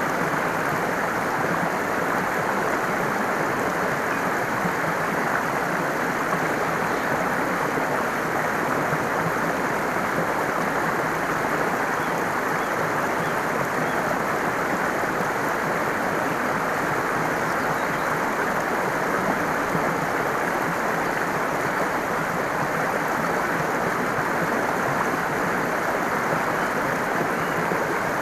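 Steady rushing and babbling of flowing stream water, even and unbroken, with a few faint high chirps from birds here and there.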